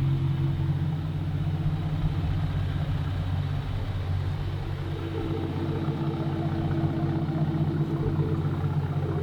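Second-generation Ford Raptor's twin-turbo 3.5 L EcoBoost V6 idling steadily through its exhaust, with no revving.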